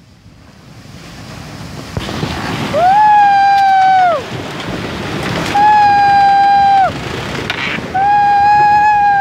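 Large ocean waves breaking on a beach, the surf growing louder through the first few seconds. Three loud, long held tones, each bending down in pitch as it ends, sound over the surf about three, five and a half and eight seconds in.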